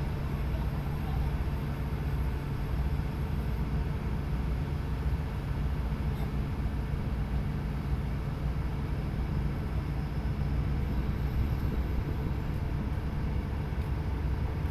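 Tugboat's diesel engine running steadily underway, a constant low drone with an even rushing noise above it.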